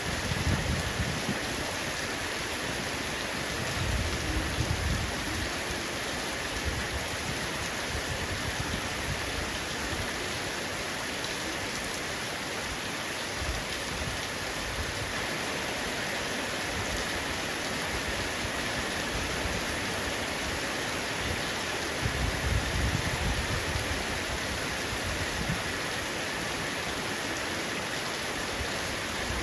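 Heavy rain falling on a roof, a steady dense hiss, with low rumbles of distant thunder swelling three times.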